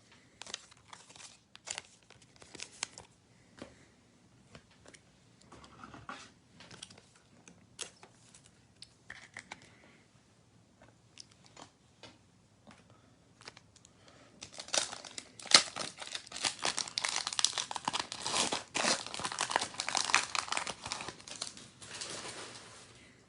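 Trading cards being handled, with scattered soft clicks and rustles. About fourteen seconds in, a dense run of crinkling and tearing lasts about eight seconds as a foil trading-card pack wrapper is torn open.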